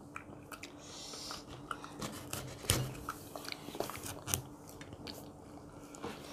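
People chewing food at a dinner table, with small irregular clicks and crunches, the sharpest nearly three seconds in, over a faint steady hum.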